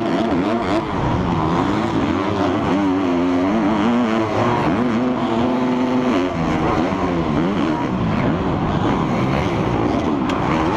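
Several dirt bike engines revving, their pitches rising and falling and overlapping as the bikes race around the track.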